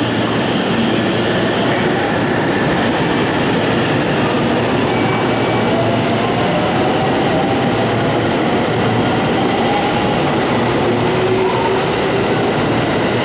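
JR Central 313-series electric train pulling out of the platform and gathering speed, with a steady rumble of wheels and running gear. A motor whine rises in pitch from about a third of the way in as it accelerates.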